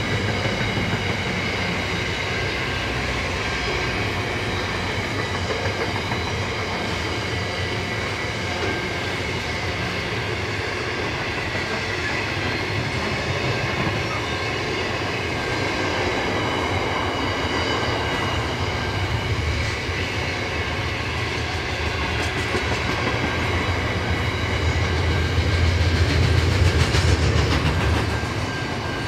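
Diesel train passing, its steel wheels clacking over the rail joints, with a low engine drone that swells about 25 seconds in and drops away near the end.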